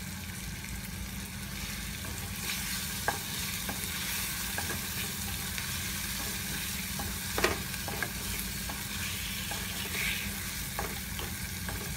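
Goat spleen pieces sizzling in oil and masala over a high gas flame in a kadhai. A wooden spatula stirs them and now and then knocks or scrapes the pan in sharp clicks. The sizzle grows louder about two seconds in.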